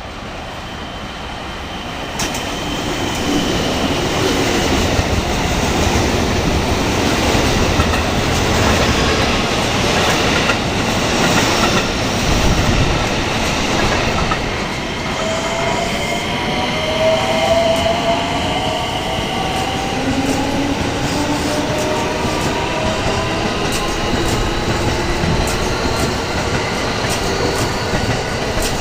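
Electric passenger train passing the level crossing at close range: the rail noise builds about two seconds in and stays loud, with a motor whine gliding in pitch through the second half.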